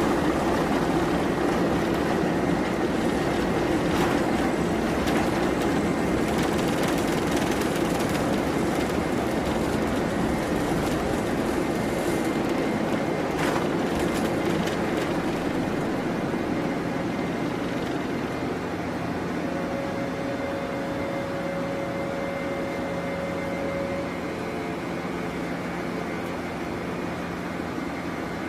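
Steady aircraft engine noise, a dense rumble with a faint humming tone, easing slightly over the second half.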